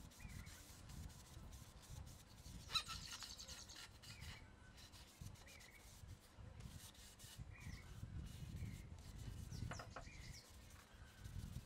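Faint outdoor ambience: a small bird repeats a short chirp every second or so over a low rumble. A brief rattling clink comes about three seconds in and a small click near the end.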